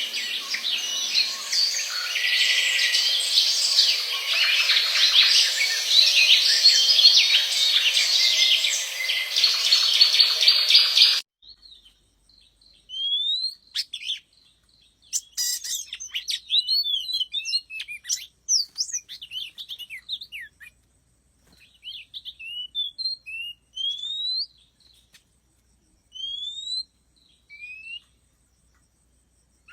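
Small birds chirping: first a dense chorus of many birds calling at once, which cuts off abruptly about eleven seconds in, then sparser separate chirps and short rising whistled notes repeated every second or two. These are high, thin calls, not a peacock's loud honking call.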